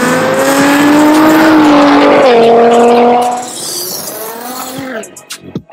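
A sports car's engine revving hard under acceleration, its pitch climbing slowly and then dropping abruptly a little past two seconds in, before the sound fades out at about three and a half seconds.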